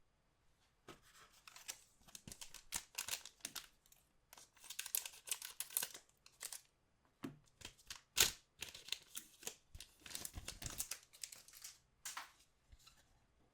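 Trading-card booster pack wrappers being crinkled and torn open by hand: a long run of irregular crackling and ripping, with one sharp click a little past the middle.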